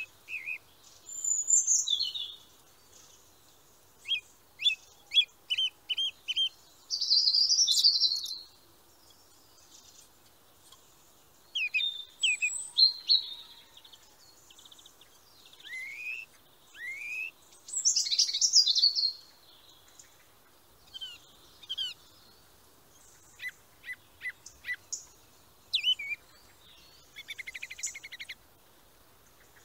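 Wild birds singing and calling: scattered bursts of chirps and short trills, some whistled notes sweeping upward, and a fast buzzy trill near the end.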